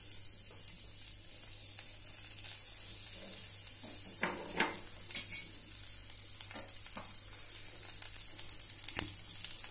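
Chopped onion and green chillies sizzling in hot oil in a metal kadai: a steady high hiss, with a few light clicks and pops in the middle.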